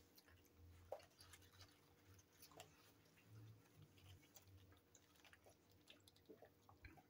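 Faint chewing of hamburger bites, with scattered soft mouth clicks and smacks.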